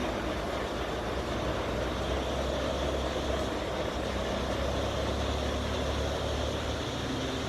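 A large engine or machine running steadily: an even low drone under a constant mechanical noise, with no change in speed.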